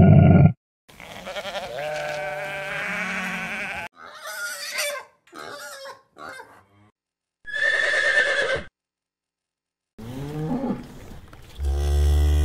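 A series of separate animal calls cut one after another, each a pitched cry with clear overtones. Between them are sudden gaps of silence: about a three-second call, a cluster of short calls, a single call near the middle, and a last run of calls near the end.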